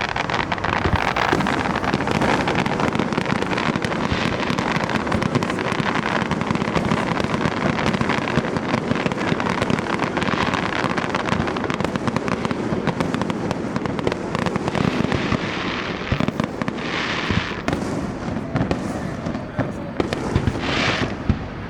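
Fireworks display: a dense, continuous barrage of rapid firework bursts and crackling, thinning a little near the end.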